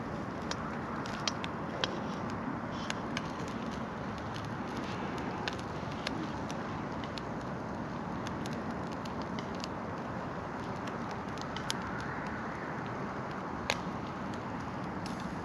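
Wood campfire crackling, with irregular sharp pops and snaps, the loudest near the end, over a steady rushing background noise.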